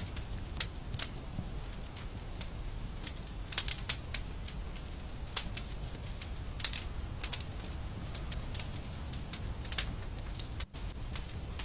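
Wood fire crackling in a fireplace: irregular sharp pops and snaps over a steady low rumble, with a split-second dropout near the end.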